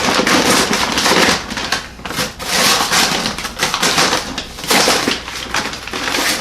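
A plastic bag of dry pinto beans being handled and crinkled, with irregular rustling and crackling throughout.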